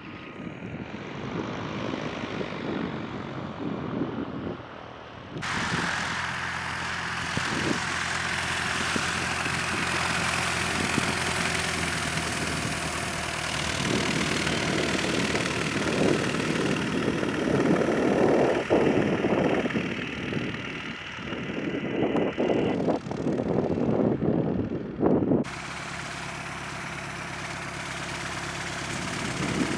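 Propeller airplane engine running steadily at low power, in several cut-together clips, with heavy wind buffeting on the microphone in the middle stretch.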